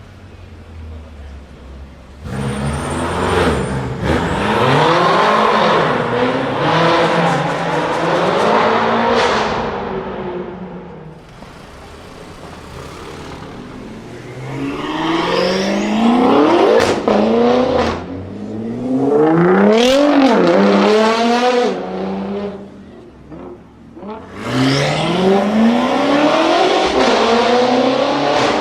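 Straight-piped BMW M5 F10 twin-turbo V8 revving hard three times, its pitch rising and falling in steps, with a quieter low rumble in the gaps between runs.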